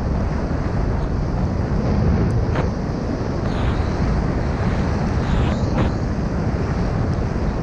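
Steady wind buffeting the microphone, a dense low rumble without a break, with a few faint ticks and swishes over it.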